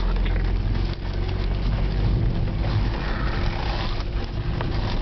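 Car engine running steadily with tyre and road noise, heard from inside the moving car's cabin.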